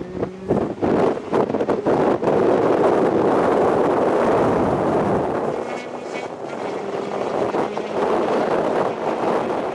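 Off-road rally car passing at speed: its engine rises in pitch at the start, then a loud rush of engine and tyre noise with sharp crackles, easing off somewhat about five seconds in.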